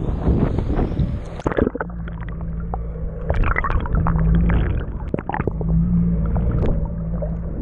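Jet ski engine running slowly with a steady low hum that swells and eases, amid water splashing and sloshing. Wind rushes on the microphone for about the first second and a half.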